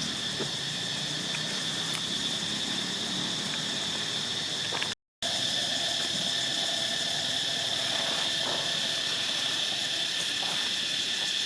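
Steady, high insect drone, broken by a brief dropout about five seconds in, with a few faint short calls in the second half.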